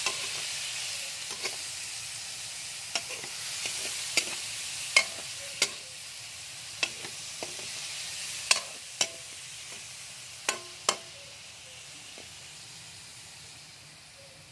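Breadfruit (kamansi) chunks sautéing in oil in a metal wok: a steady sizzle that slowly fades, with sharp clanks of a metal spatula against the wok every second or so that stop a few seconds before the end.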